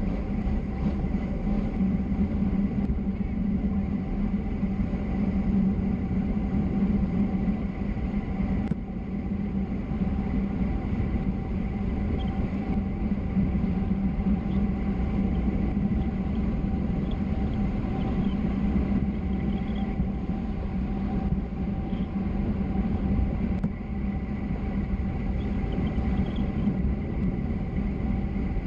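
Steady rumble of tyres on the road and rushing wind during a fast downhill descent, with a faint steady hum.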